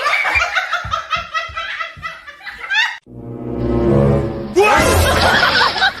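A person laughing in quick repeated bursts over background music with a regular beat. About halfway through the sound cuts off abruptly; a low rumble builds and then gives way to a loud, noisy mix.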